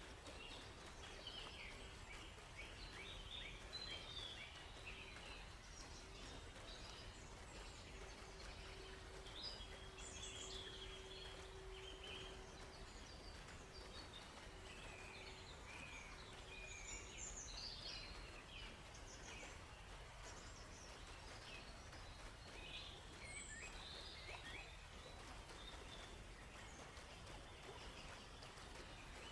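Several small birds chirping and warbling in short, scattered phrases over a faint, steady background hiss, with a faint low hum in the first half.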